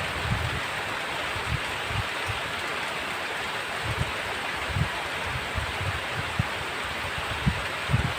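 Heavy rain falling in a steady rushing hiss, with short irregular low thumps scattered through it.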